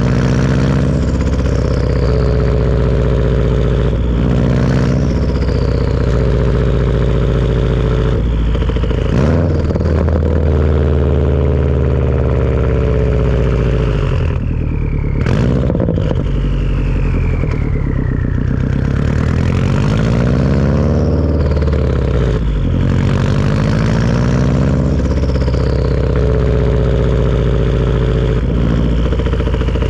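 Turbocharged Subaru engine with a Tomei turbo-back exhaust driving through the gears, revving up and dropping back at each shift. A high turbo whistle falls in pitch again and again as the turbo spools down off the throttle.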